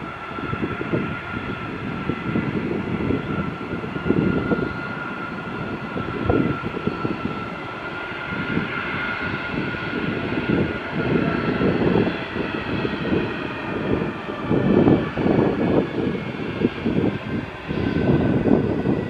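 Jet airliner's engines: a steady high whine over a low, uneven rumble, the whine sliding slightly lower in pitch about halfway through.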